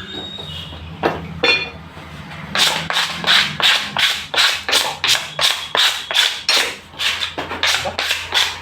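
Butcher's cleaver chopping chicken on a chopping block: a couple of strikes, then a fast, even run of chops about three a second.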